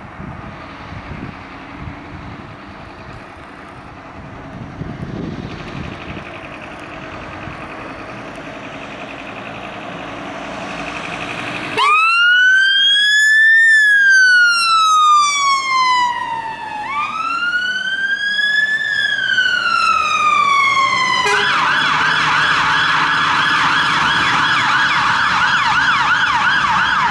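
Fire engine siren responding to a call: road and engine noise at first, then about twelve seconds in the siren sounds loudly in a slow wail, rising and falling twice. About twenty-one seconds in it switches to a fast yelp that warbles rapidly to the end.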